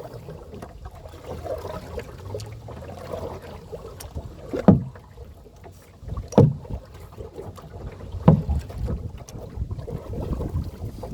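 Canoe paddle strokes in the water, three strong pulls about two seconds apart in the second half, over steady wind noise on the microphone.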